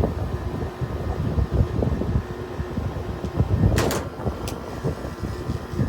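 Haier 5,200 BTU window air conditioner running with a loud, uneven low rumble. Its compressor sounds angry after not having run for a couple of days, and the refrigerant is audibly flowing. A short burst of noise comes just before four seconds in, followed by a faint click.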